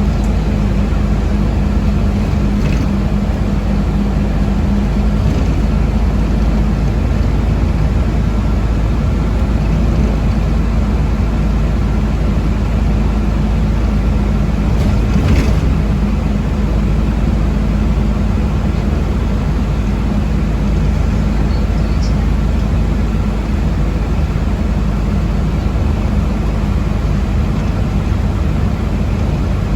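Steady low rumble inside the passenger cabin of a moving city bus or trolleybus, with a faint steady whine and a single short knock about halfway through.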